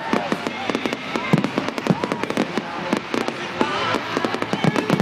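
Fireworks going off in quick, irregular bangs and crackles, with a song with a singing voice playing underneath.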